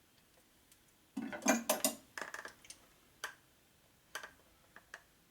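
Small metal parts and hand tools clinking on a workbench: a short clattering burst about a second in, then a few single clicks.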